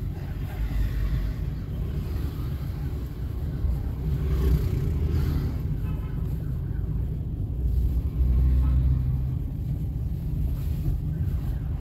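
A car on the move: steady low engine and road rumble that swells a little twice.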